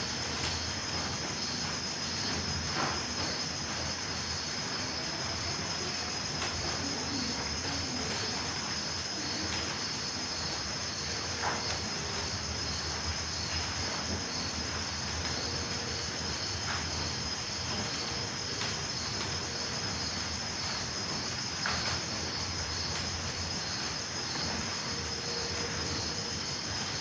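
Crickets chirping at night: a continuous high trill with a second, evenly pulsed chirp about twice a second just below it, over a faint steady hiss.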